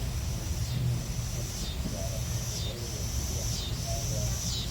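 Steady rain falling, with a low rumble underneath. A high-pitched call repeats about once a second, each call held and then dropping in pitch at its end.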